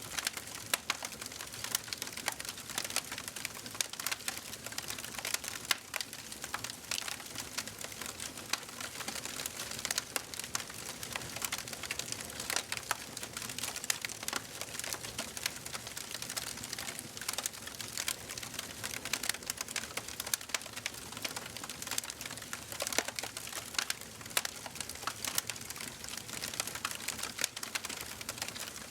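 Wood fire crackling and popping steadily in a fireplace: many irregular sharp snaps over a soft hiss of burning.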